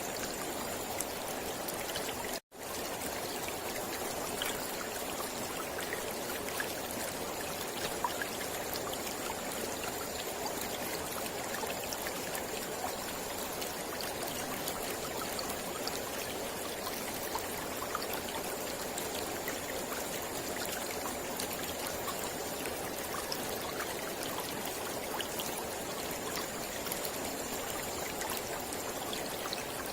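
Mountain river flowing over rocks: a steady rush with many small splashes. The sound drops out completely for a moment about two and a half seconds in.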